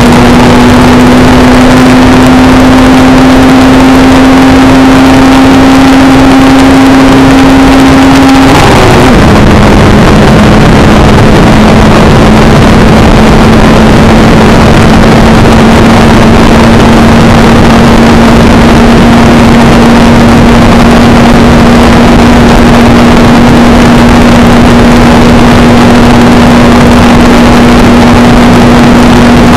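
Two-stroke motorcycle engine running hard at high, steady revs, its pitch slowly climbing. About eight seconds in the pitch drops abruptly, with a brief sharp noise, then slowly climbs again.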